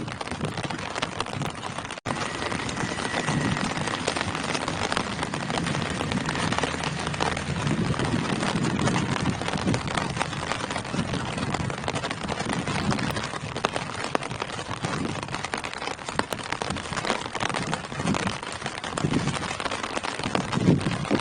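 Steady rain falling on tree leaves, a dense even patter with heavier, deeper drops swelling in and out. It cuts out for an instant about two seconds in.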